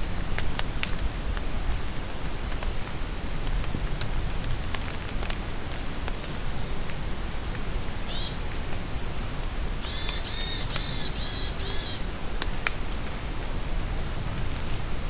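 Steady rain in a forest with scattered drips, and a songbird singing short high chirps. Its loudest phrase is a run of quick repeated notes lasting about two seconds, about two-thirds of the way through.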